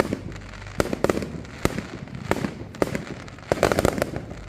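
Fireworks going off: a run of sharp bangs about every half second, then a quick burst of rapid crackling near the end.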